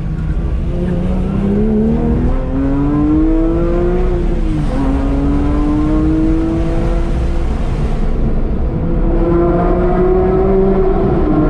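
Porsche 911 GT3's naturally aspirated flat-six engine and exhaust pulling hard through the gears in a tunnel, heard from inside the car with a window down. The revs climb, drop with an upshift about four and a half seconds in, climb again, ease off around eight seconds, then rise once more near the end.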